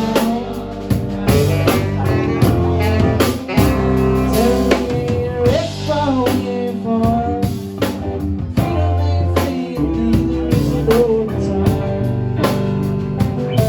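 Live band playing an instrumental passage: drum kit keeping a steady beat under bass and guitar, with a melody line bending in pitch over them.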